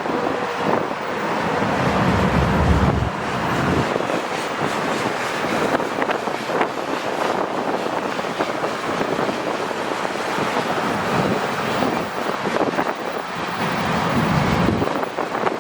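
A freight train rolling by, a steady rushing rumble of wheels on rail, with wind buffeting the microphone twice, about two seconds in and near the end.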